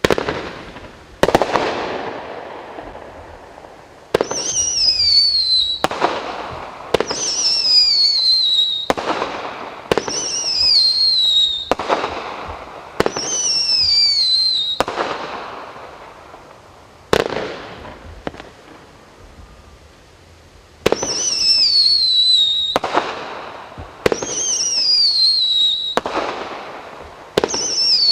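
Sinopyro SP6216 fireworks firing shot after shot, one every second or two, each a sharp report followed by a fading hiss. Many shots carry a shrill whistle that falls in pitch. There is a pause of a few seconds just past the middle.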